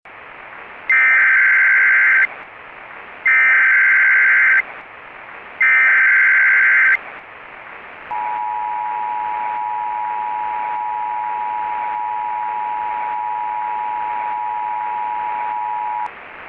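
Emergency Alert System tones over a steady hiss of static: three loud bursts of SAME header data, each a little over a second long, then the steady two-tone attention signal held for about eight seconds. The three header bursts followed by the attention signal mark the start of an emergency alert.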